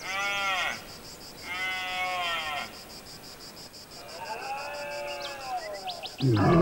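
A deer stag bellowing in rut: three short calls that rise and fall in pitch, then a longer, lower call, over a steady high insect trill. Music comes in loudly near the end.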